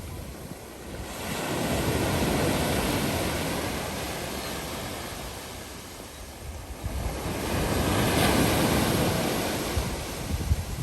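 Sea waves washing onto the shore: two swells of surf, one a couple of seconds in and one near the end, each rising and falling away. Wind buffets the microphone near the end.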